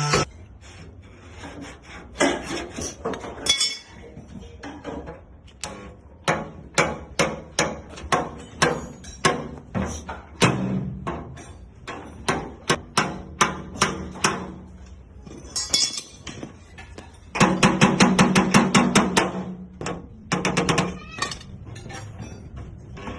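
Hammer striking sheet metal in body panel repair: a string of separate blows at an uneven pace, then a fast run of rapid taps about three-quarters of the way through and a shorter run soon after.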